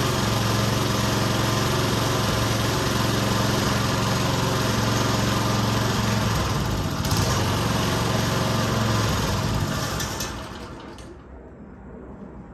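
Small lawn mower engine running steadily, then falling away and stopping about ten seconds in.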